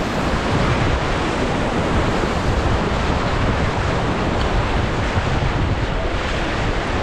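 Rushing whitewater of a river rapid around a raft, a steady loud roar of water, with wind buffeting the microphone.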